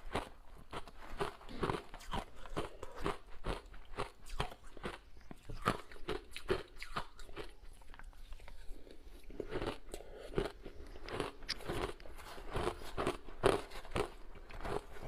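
Close-up crunching and chewing of ice, with bite after bite in an irregular run of crisp crunches that thins out briefly about eight seconds in.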